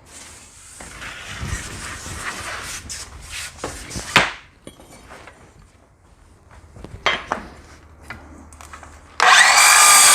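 Wooden board being slid and handled, with a few sharp knocks, then about nine seconds in a cordless circular saw starts and cuts across the end of a cedar board to square it.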